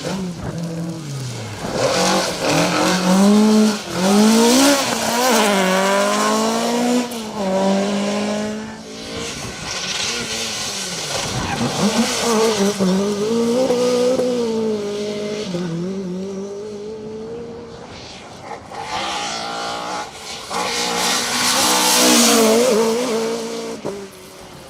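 Ford Escort Mk2 rally car engine revving hard and changing up through the gears, the pitch repeatedly climbing and dropping back. It eases to a steadier, lower drone in the middle, then revs up loudly again near the end.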